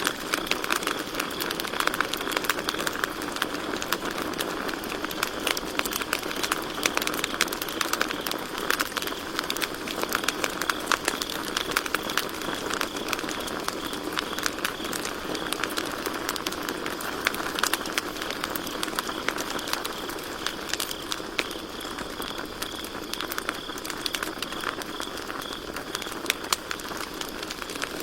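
Campfire burning, the wood crackling with many sharp snaps, over a faint steady trill of crickets.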